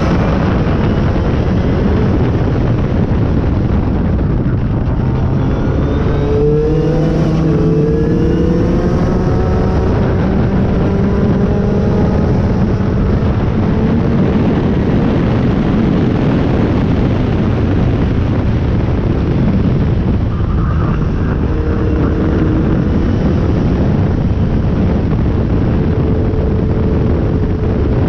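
Toyota Starlet driving fast, heard from a microphone on its bumper: heavy wind and road rush over the engine. The engine pitch rises a couple of times as it accelerates, about six to eight seconds in.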